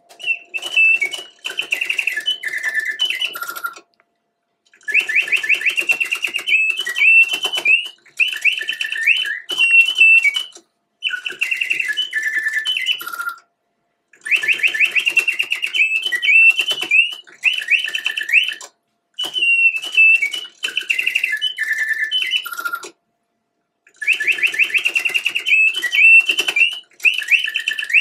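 Bontems double singing-bird cage automaton, its bellows-driven piston whistle singing birdsong: phrases of rapid trills and chirps a few seconds long, broken by short pauses.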